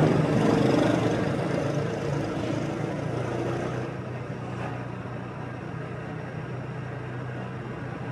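Motorbike engine running steadily under street traffic noise. The traffic is louder at the start, dies down over the first few seconds and leaves a steady low engine hum.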